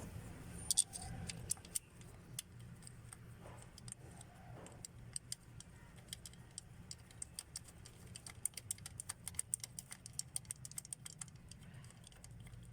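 Light metallic clicks and clinks of a bolt and hand tools as an ignition coil's hold-down bolt is fitted and tightened, with a quick run of rapid clicks in the later part, over a low steady hum.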